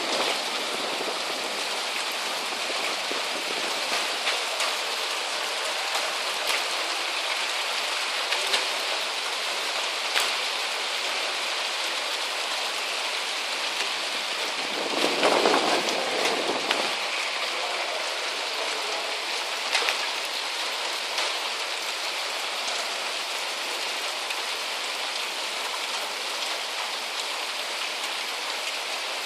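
Heavy rain falling steadily, an even hiss with scattered sharp ticks of drops striking nearby surfaces. About halfway through, a louder rush swells for roughly two seconds and then fades.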